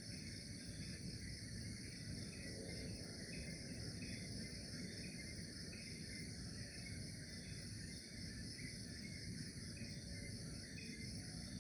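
Steady night-insect chorus, crickets trilling in several layered high tones, with a softer chirp repeating about twice a second. A low rumbling hiss lies underneath.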